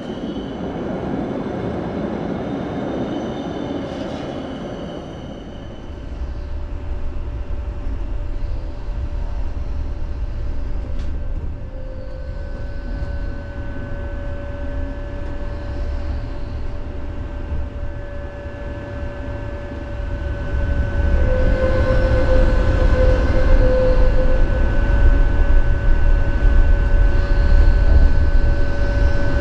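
Tram running on its rails: a steady low rumble with a thin, steady whine over it, getting louder about twenty seconds in.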